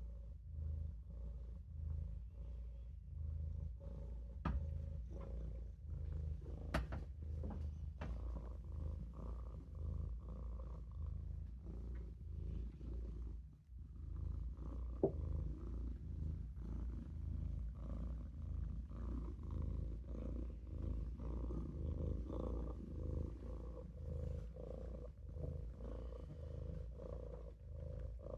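Maine Coon kitten purring, a low rumble that swells and eases with each breath about once a second. A few faint clicks come in the first third, and a single sharp tick about halfway.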